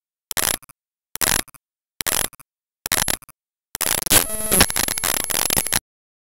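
Choppy, broken-up recording: short bursts of hiss-like noise about once a second, cut by dead silence between them. A longer burst with a brief tone follows, then the sound drops out entirely.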